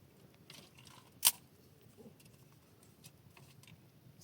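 A single sharp click about a second in, over faint rustling.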